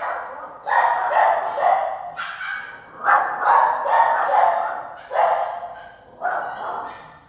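Shelter dogs barking in about four bouts in a row, each lasting a second or two.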